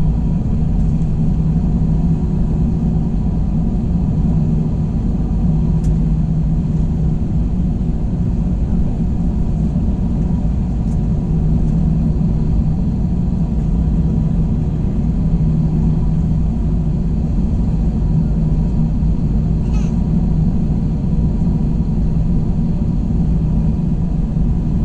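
Airbus A321 engine and airflow noise heard inside the passenger cabin: a steady, loud low rumble with a constant hum.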